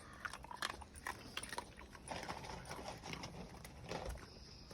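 Several dogs moving about and eating treats they have just been handed: irregular light clicks and taps.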